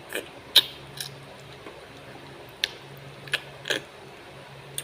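Person eating noodles: a handful of sharp clicks and short mouth noises at irregular intervals, over a steady low hum.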